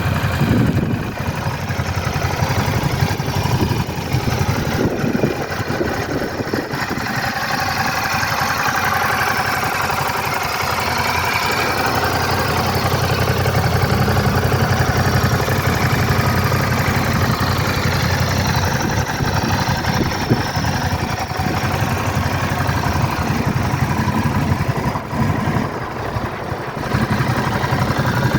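Ducati DesertX's 937 cc Testastretta V-twin engine idling steadily, dipping briefly in level near the end.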